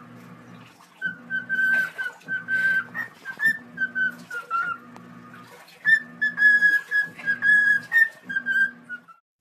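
Parrot whistling a tune: a string of clear, held notes stepping up and down in pitch, over a low pulse that repeats just under once a second. It all stops shortly before the end.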